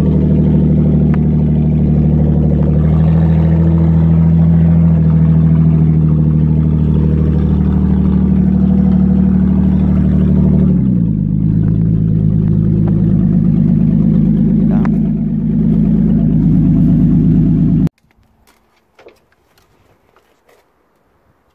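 Hyundai Genesis Coupe 3.8 V6 engine idling steadily; about eleven seconds in the idle speed drops and settles lower. The sound cuts off abruptly near the end.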